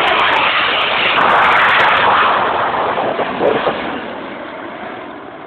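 CT-114 Tutor jets passing overhead with a loud jet roar that builds to a peak about two seconds in, then fades away.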